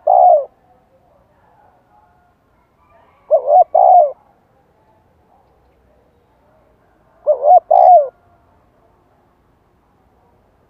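Spotted dove cooing: three short two-part coo phrases about four seconds apart, one at the start, one about three and a half seconds in and one about seven and a half seconds in.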